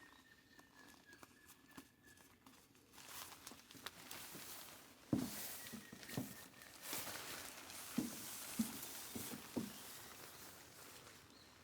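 Soft, irregular thumps, about six of them, over a rustling hiss that sets in a few seconds in.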